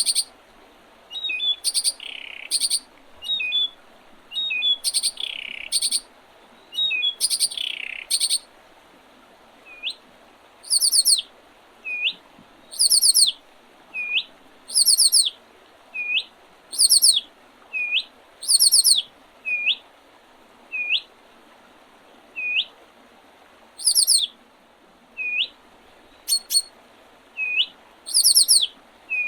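Wild songbirds singing in early spring. For the first eight seconds one bird repeats quick songs of falling notes about a second apart. After that, short hooked whistles come roughly once a second, alternating with series of very high, thin notes.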